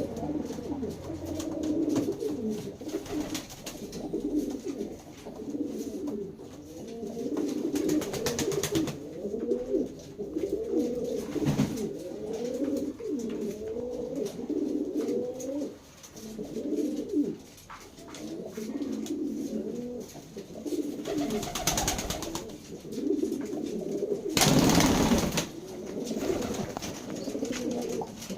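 Domestic pigeons cooing over and over in low, wavering phrases. A few brief rushes of noise cut in, the loudest near the end.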